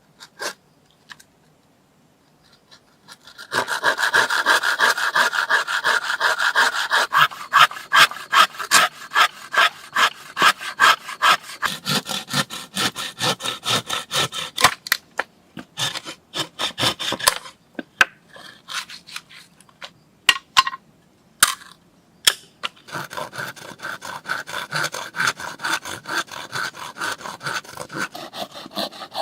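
Wood being cut or worked by hand with a blade in quick back-and-forth strokes, about three a second. The strokes start a few seconds in, pause for a few seconds with only scattered knocks, then resume near the end.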